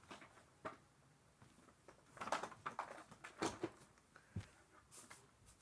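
Scattered light clicks and rustles of objects being handled, most of them about two to three and a half seconds in; no vacuum motor is running.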